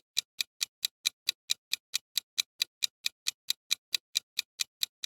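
Clock ticking sound effect of a quiz countdown timer: an even run of sharp ticks, about four to five a second.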